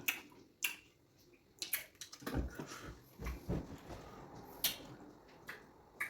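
Close-miked mukbang eating sounds: wet mouth clicks and smacks from chewing fufu and okra soup, with a few dull low thumps in the middle.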